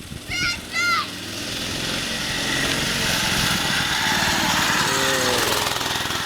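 Small mini-bike engine running, swelling louder from about a second in and then holding steady. A couple of short high calls come just before it.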